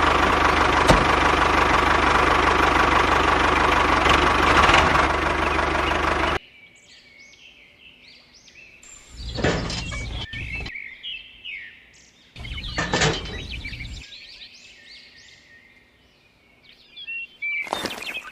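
A loud, steady mechanical noise cuts off suddenly about six seconds in. After it come many short, high bird chirps, with two louder bursts of noise in the middle and more near the end.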